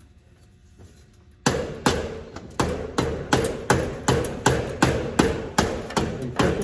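Hand hammer striking metal in a fast, even run of blows, about three a second, each with a short metallic ring. The blows start about a second and a half in.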